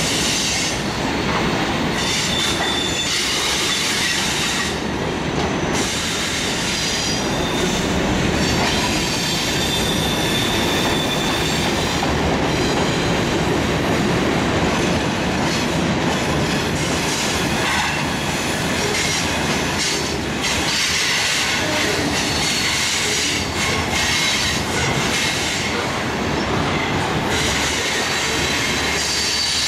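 Freight train cars rolling steadily past, steel wheels running on the rails, with a thin high squeal from the wheels that comes and goes.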